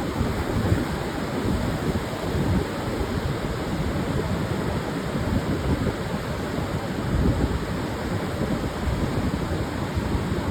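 Pacific surf washing onto a sandy beach in a continuous rush, swelling and easing slightly, with wind rumbling on the microphone.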